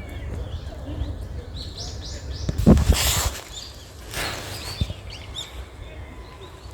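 Strong wind rumbling on the microphone while small birds chirp in short high notes. About three seconds in, a louder rush of noise peaks and falls away, with a smaller one a second later.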